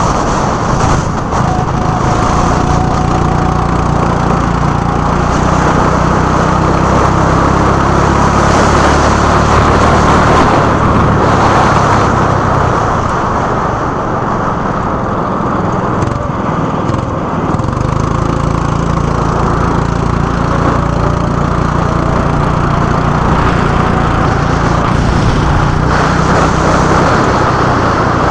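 Go-kart engine running at speed with a steady, buzzing note under a dense rush of noise; about halfway through the note drops away briefly, as if easing off for a corner, then picks up and holds steady again.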